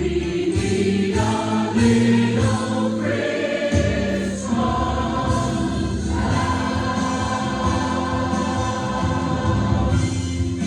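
A choir singing long held notes over a steady instrumental accompaniment.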